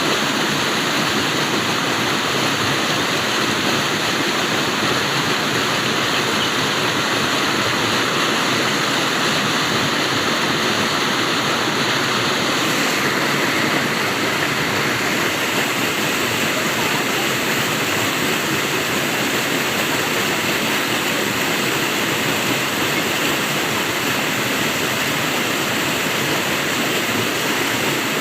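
Flowing water rushing steadily, a continuous hiss like a small waterfall or fast stream.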